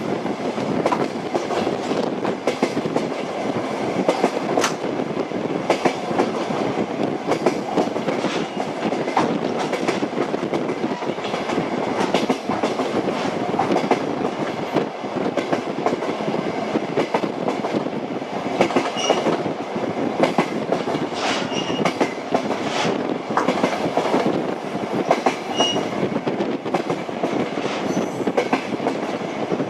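Train running at speed, its wheels clicking over the rail joints in an irregular clickety-clack over a steady rumble. A few short, high squeaks come in the second half.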